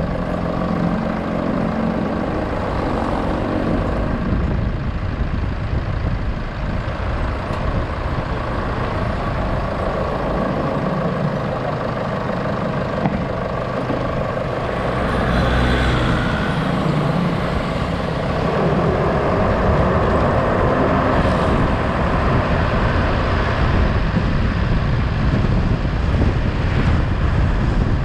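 Motor vehicle running on a road, a steady low engine rumble mixed with road and traffic noise, growing a little louder about halfway through.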